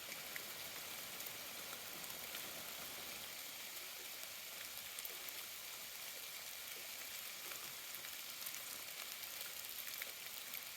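Ice-coated tree branches popping and crackling: a steady, fine crackle that sounds like rain but is not, with many scattered faint ticks.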